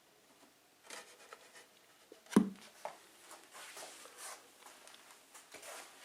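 A wooden top panel being set onto a glued plywood frame: scraping and rubbing of wood on wood, with one knock about two and a half seconds in as it comes down.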